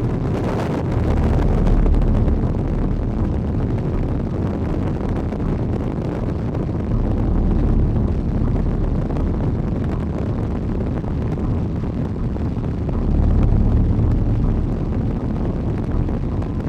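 Strong wind blowing over the microphone, a steady rush heaviest in the low end that swells in gusts about two seconds in, around eight seconds and again near fourteen seconds.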